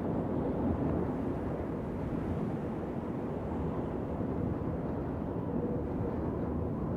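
Wind blowing steadily, a deep even rushing noise with no sharp gusts or breaks.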